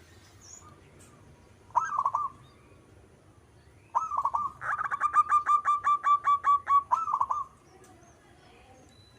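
Zebra dove (perkutut) cooing: a short burst about two seconds in, then a longer phrase of rapid, evenly repeated coos from about four to seven and a half seconds.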